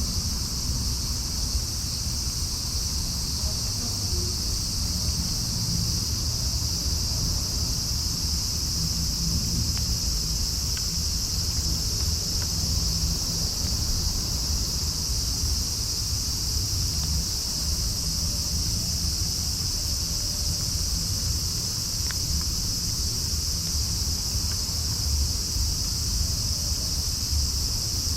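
Steady high-pitched chorus of crickets, unchanging throughout, over a low rumble.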